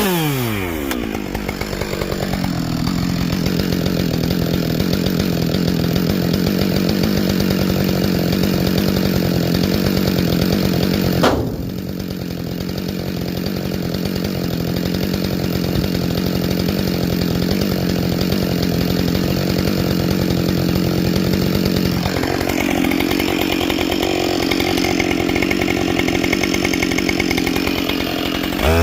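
Husqvarna 572XP two-stroke chainsaw with a carbide chain, running steadily under load as it cuts through wood. There is a sharp crack about 11 seconds in. About two-thirds of the way through, the engine note rises higher.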